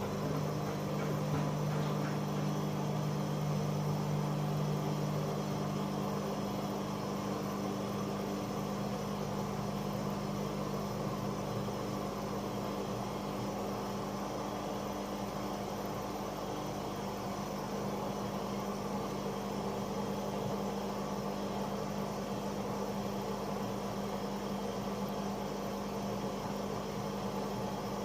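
AEG Öko-Lavamat 88840 front-loading washing machine running mid-programme: a steady low machine hum over a soft wash of noise. One of its hum tones fades out about five seconds in.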